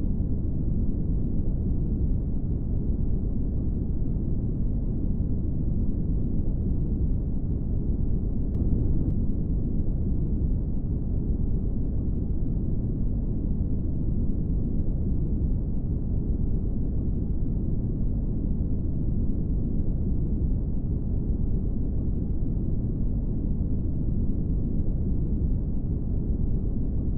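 Brown noise: a steady, deep rushing noise, strongest in the low end and with no high hiss.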